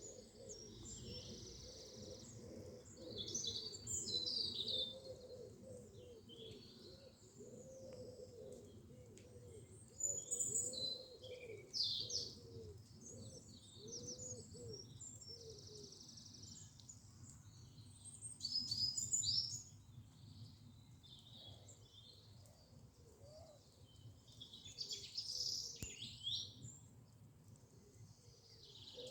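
Wild birds singing: several overlapping songs and chirps, with louder phrases about four, ten to twelve and nineteen seconds in. A lower, repeated call runs underneath through the first half. A faint low background rumble sits under it all.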